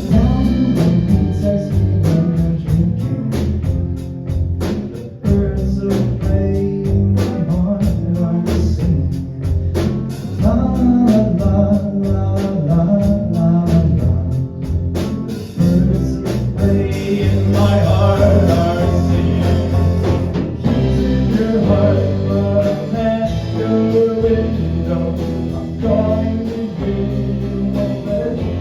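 A live band playing a song, with sung vocals over guitar and a steady drum beat.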